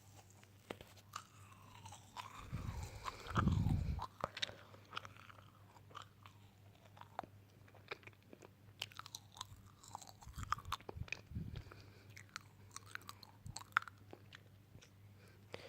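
Close-miked chewing of crunchy food, with many sharp crackles and clicks; the loudest, deepest bites come about three seconds in.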